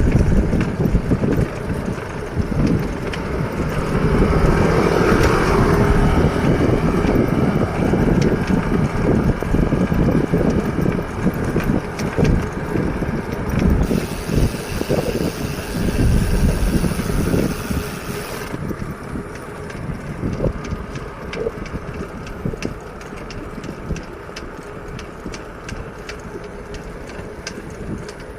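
Wind buffeting the microphone and rumbling road noise during a bicycle ride, loud for the first two-thirds and easing off after about nineteen seconds.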